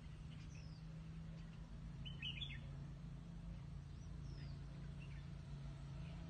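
Wild birds calling in forest: a few short high chirps and down-slurred whistles, the clearest cluster about two seconds in, over a steady low hum.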